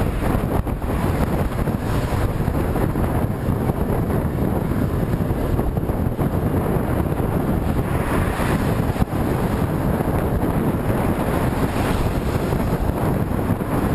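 Heavy wind noise buffeting the microphone: a steady, low, rushing roar from moving into a strong headwind.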